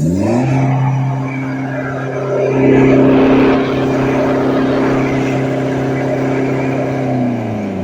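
Stationary vehicle engine with a modified loud exhaust revved up and held at high revs for several seconds as a steady drone, then let back down near the end: a standstill rev test of the exhaust's noise.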